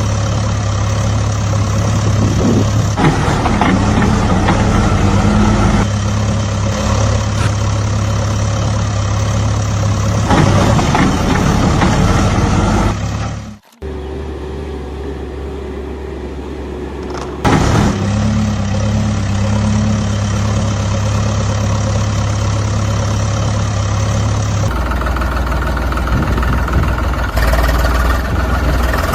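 Steady idling engine sound, like a tractor's. It cuts out abruptly about halfway through, returns quieter for a few seconds, then comes back at full level and shifts in tone near the end.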